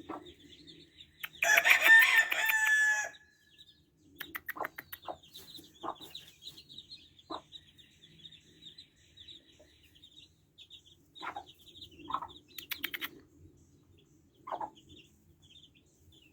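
Rooster crowing once, loudly, starting just over a second in, followed by scattered short clucks and calls from other roosters and faint chirping of small birds.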